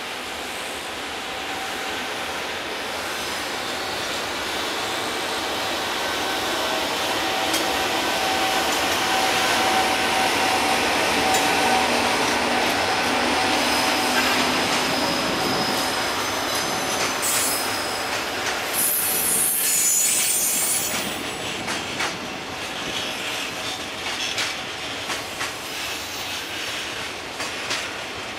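A long container freight train hauled by an EF510 electric locomotive rolling past, its wheels squealing in several steady high tones as the wagons go by. Loudness swells to a peak partway through, then eases off, with uneven clicks of wheels over rail joints in the last few seconds.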